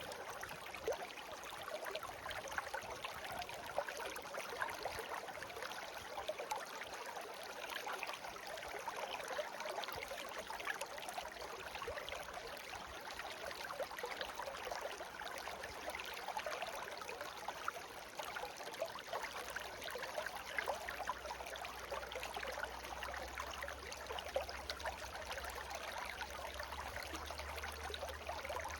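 Small stream babbling steadily, a continuous rush of water with many fine splashes and trickles.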